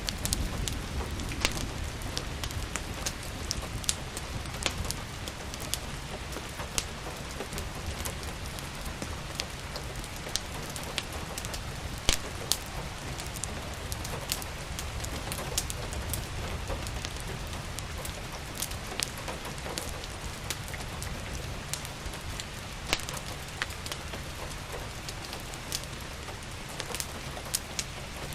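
Steady rainfall mixed with the irregular pops and snaps of a crackling wood fire, a few sharp cracks standing out louder than the rest.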